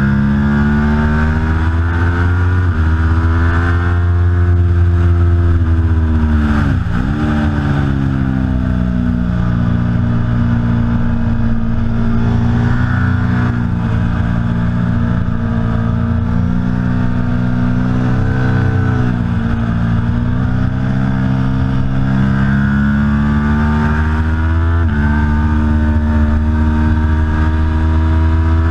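Aprilia Tuono V4 Factory's V4 engine running hard, its pitch climbing and falling with throttle and gear changes. About seven seconds in the revs drop sharply and climb straight back up.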